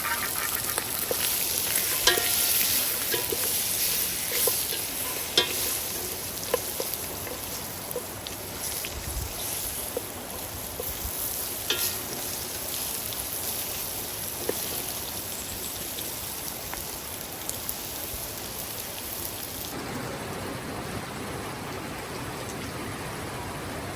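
Food frying in a pan: a crackling sizzle with scattered sharp clicks and ticks. About 20 seconds in it gives way to a steadier, even hiss.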